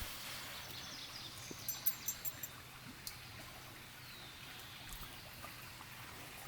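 Faint, steady outdoor background hiss, with a few small sharp clicks about two seconds in.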